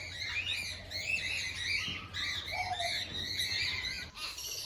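Many birds chirping and chattering at once in quick, overlapping calls, as in a zoo aviary, with one lower call about two and a half seconds in. A faint steady low hum runs underneath.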